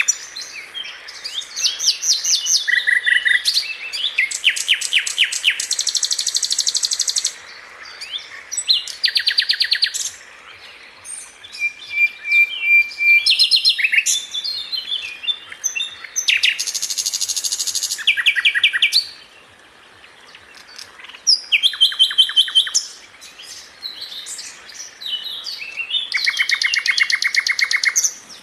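Songbirds singing: fast, high trills and varied chattering phrases come in bursts of one to three seconds, broken by short pauses, with a quieter spell about two-thirds of the way through.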